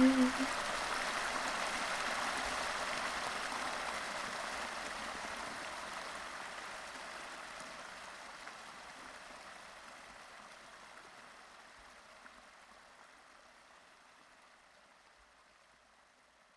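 Flowing stream water, a steady rushing that fades slowly down to near silence.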